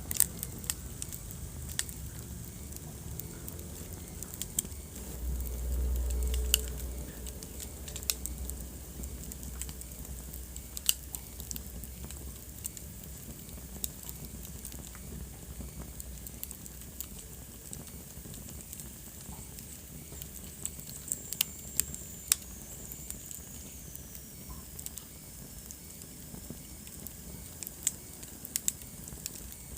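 Wood fire burning in a fireplace: steady soft hiss with irregular sharp crackles and pops throughout. A brief low rumble comes about five seconds in, and a faint high whistle slides down in pitch past the twenty-second mark.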